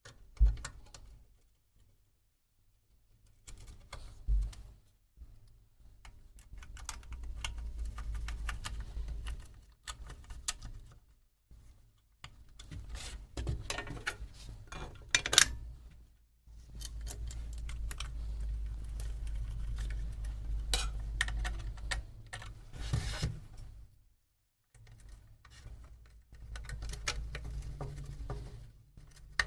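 Irregular clicking and light clattering of small metal parts and tools being handled, with several stretches of low rumble.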